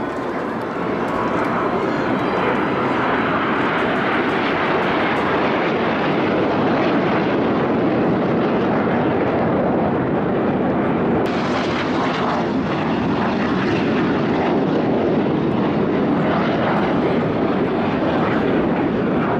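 Aermacchi MB-339 jet trainers flying over, a loud steady jet-engine roar that builds over the first second or so and holds. About halfway through it suddenly turns brighter and sharper.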